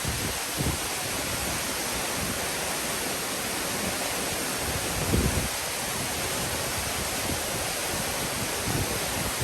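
Waterfall: a steady rush of falling water, with a couple of brief low bumps of wind on the microphone.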